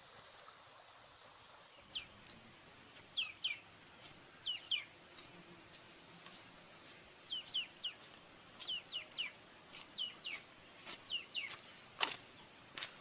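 Bird chirping: short calls that drop in pitch, in quick pairs and threes, beginning about two seconds in, over a steady high-pitched insect drone. A sharp click sounds near the end.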